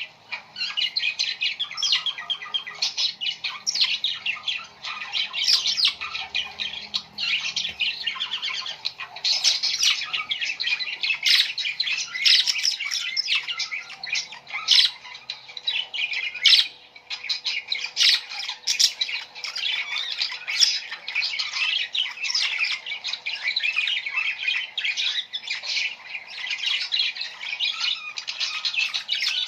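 A flock of small birds chirping and squawking together in a dense, unbroken chatter of short, high calls.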